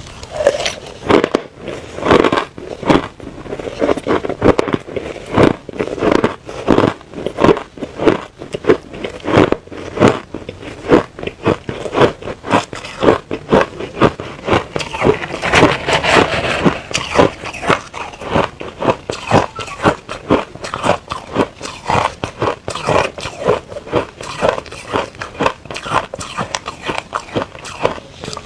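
Close-miked biting and chewing of crushed hard ice: rapid, irregular crunches at roughly two to three a second.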